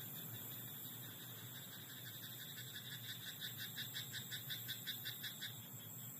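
Frog calling in a rice paddy: a rapid run of croaks, about six a second, beginning about two seconds in and stopping abruptly after five and a half seconds, over a steady high-pitched hiss.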